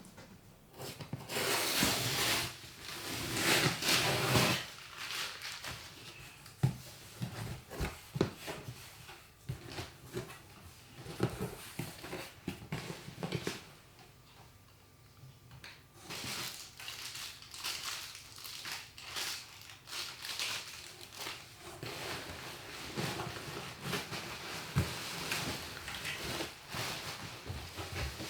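Indoor handling sounds: long stretches of rustling with scattered sharp clicks and knocks, the loudest rustling between about one and four and a half seconds in, and a quieter pause just past the middle.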